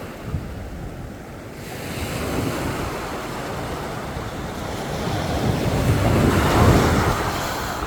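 Sea waves washing onto a beach, easing off about a second in and then building to a loud breaking surge about six to seven seconds in, with wind buffeting the microphone.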